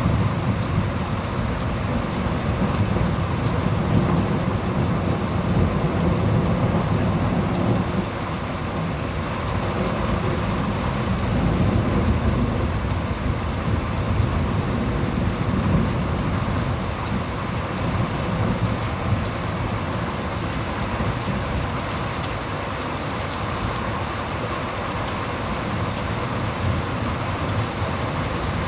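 Heavy rain falling steadily during a thunderstorm, under low rolling thunder that swells and fades over several seconds at a time.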